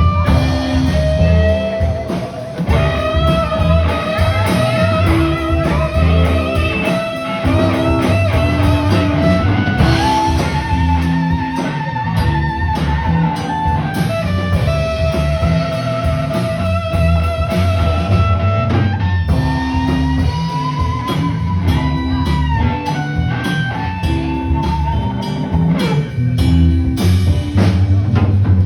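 A live blues-rock band playing: a guitar lead holds long notes with vibrato and slides up into new notes, over bass and a drum kit.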